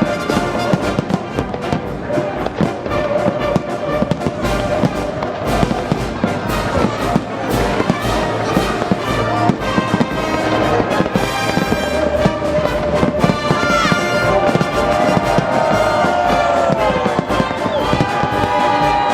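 Festive fireworks salute going off in rapid, continuous bangs, with music playing alongside. Whistling pitch glides join in over the last few seconds.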